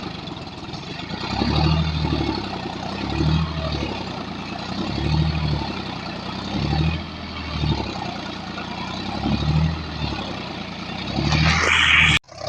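Tractor engine running under load while stuck in paddy-field mud, its low drone swelling and easing about every second and a half to two seconds. Near the end a louder, noisier rush builds, then cuts off abruptly.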